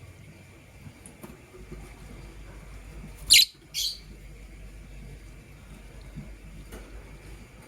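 Lovebird giving two short, sharp, high-pitched chirps in quick succession about three seconds in.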